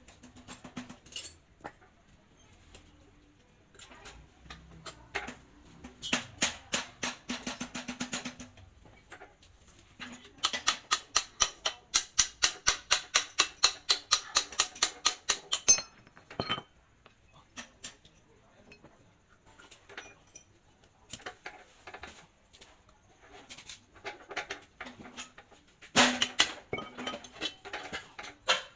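Metal tools striking and clinking on metal parts in runs of quick, even taps, the longest at about four to five strikes a second, with a loud cluster near the end.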